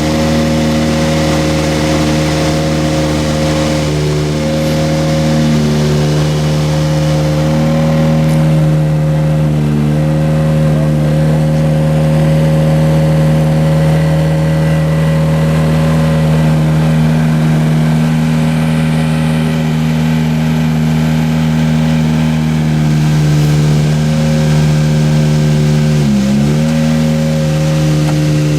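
Rally car engine running loud at steady revs, the note held almost constant, with a few quick dips and recoveries in revs near the end.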